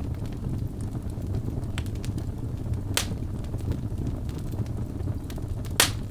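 Wood fire burning in a fireplace: a steady low rumble of flames with scattered small crackles and two sharp pops from the burning logs, one about three seconds in and a louder one near the end.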